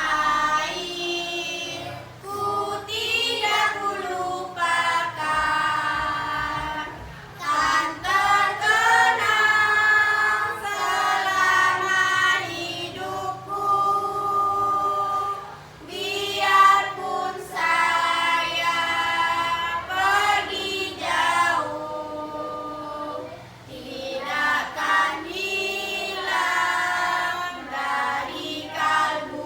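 A choir of young schoolchildren singing in unison phrases, with short breaks between phrases.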